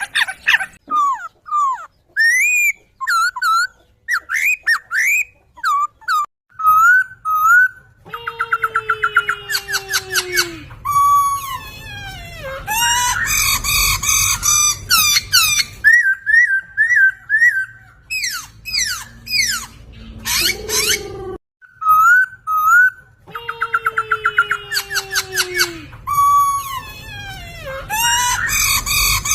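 Recorded song of a poksay (laughingthrush) played as a training track for cage birds: loud, varied whistled phrases with rising and falling slurs, quick repeated notes and fast trills. The passage repeats about halfway through, as a looped recording does.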